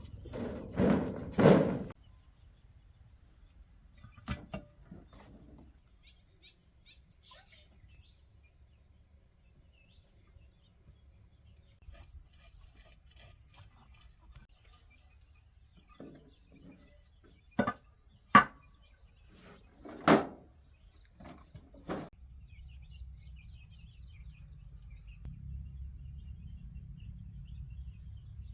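Steady high-pitched insect chirring, like crickets, throughout, broken by a few short sharp knocks: two near the start, a pair just past the middle and another shortly after.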